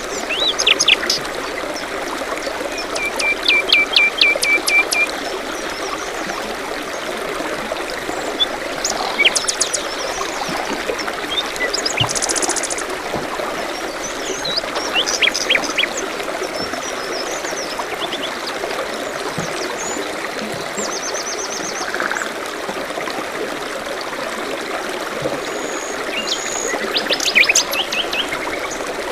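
Forest soundscape: a stream trickling steadily, with several songbirds chirping and trilling over it in short phrases throughout.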